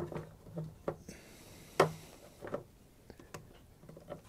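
Slip-joint pliers working a clamp: a few scattered metallic clicks and knocks, the loudest about two seconds in.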